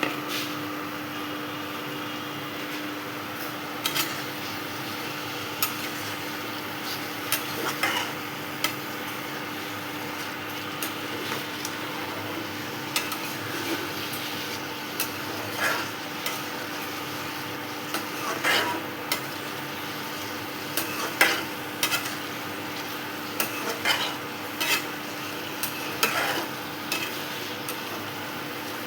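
Marinated chicken pieces sizzling in hot oil and onions in a kadai, a steady hiss with a low hum underneath. A spatula stirs them, scraping and knocking against the pan at irregular moments throughout.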